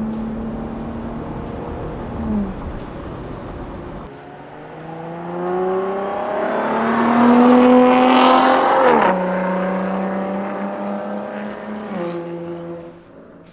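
Jeep Gladiator's engine through a Milltek Sport cat-back performance exhaust: held at steady revs, then easing off. It then accelerates with a rising note, loudest about eight to nine seconds in, before dropping back to a steady lower drone that fades near the end.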